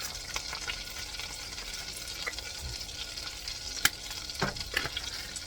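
Butter and olive oil sizzling steadily in a frying pan, with scattered light clicks of utensils; one sharp click nearly four seconds in.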